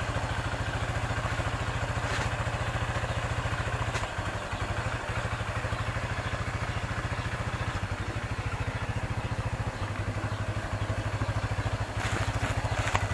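A small engine idling steadily with a fast, even beat, with a few brief clatters.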